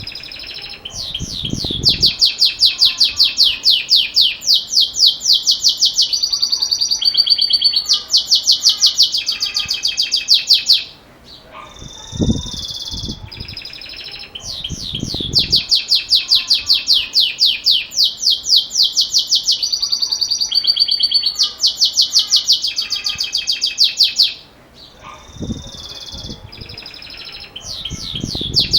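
Belgian canary singing its metallic 'campainha' (bell) song: long phrases of fast, ringing trills, each running several seconds, separated by short pauses. Two full phrases, with a third starting near the end.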